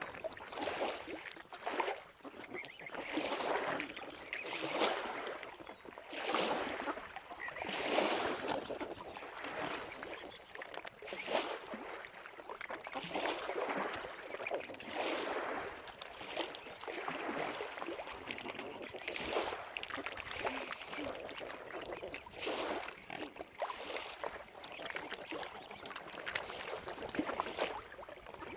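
Small waves lapping at the lake's edge, a watery wash that swells and falls every second or two.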